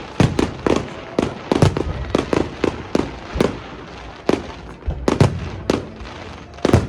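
A fireworks display: a rapid, irregular series of booms and pops, several a second, over a crackling hiss.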